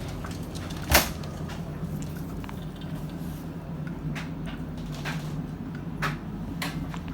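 A single sharp knock about a second in, then scattered lighter clicks and taps over a steady low hum.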